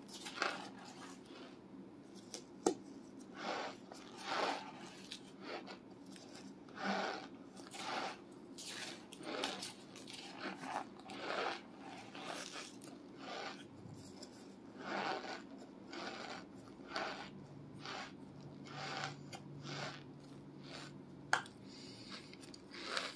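Chunks of compressed cornstarch being chewed in a steady run of gritty, squeaky crunches, roughly one a second, with two sharp clicks among them.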